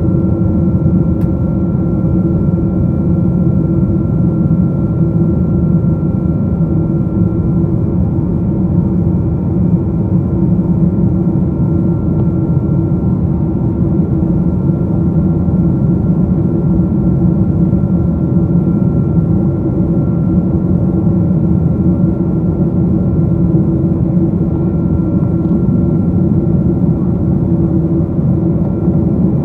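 Steady roar of the jet engines and airflow heard inside the economy cabin of a Boeing 777-200 in flight, with a few steady hum tones held over the rumble.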